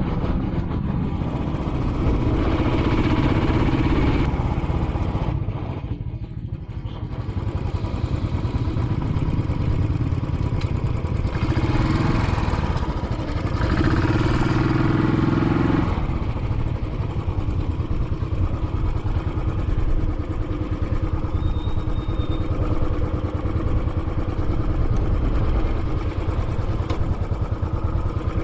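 Royal Enfield Classic 500's single-cylinder engine running under way, its note swelling with more throttle twice, about two seconds in and again around eleven to sixteen seconds.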